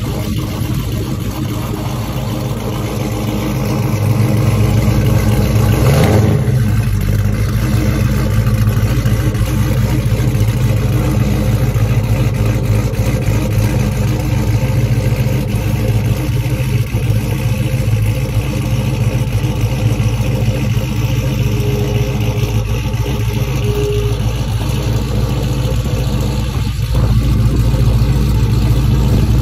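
1971 Chevrolet Nova's engine running at low revs under light load as the car creeps up a ramp, getting louder about four seconds in, with a short sharp sound around six seconds in.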